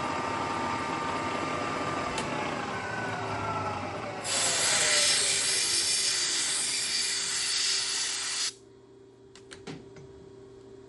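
Milling machine running during a roughing cut in an aluminium vise jaw, then switched off with a click about two seconds in, its spindle and motor winding down in falling tones. About four seconds in, a loud steady hiss of compressed air, typical of blowing chips off the part, starts suddenly and cuts off just over four seconds later. It is followed by a few light clicks over a faint hum.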